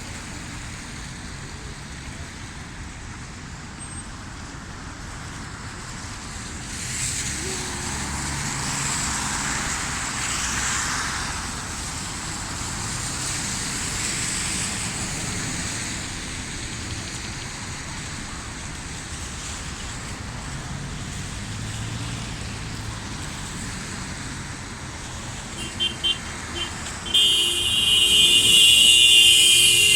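Road traffic on rain-wet streets, a steady hiss of rain and tyres, with a vehicle passing about a third of the way in. Near the end a car horn gives a few short beeps, then sounds loudly for about three seconds.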